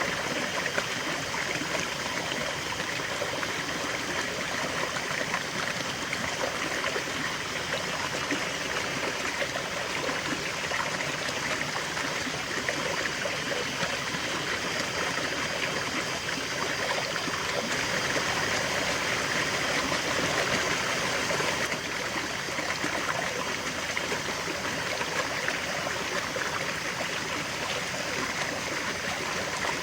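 River water flowing with a steady rushing and babbling, a little louder for a few seconds about two-thirds of the way through.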